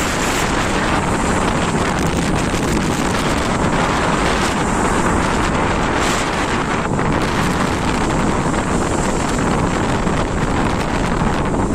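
Strong wind blowing across the microphone at the seaside, a steady loud rumble and rush with sea waves washing beneath it.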